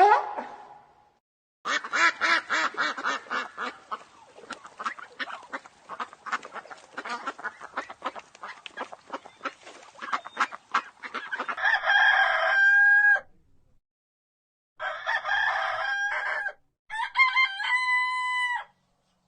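Chickens: a long run of rapid clucking that fades over several seconds, then three long crows from a rooster, each cut off abruptly.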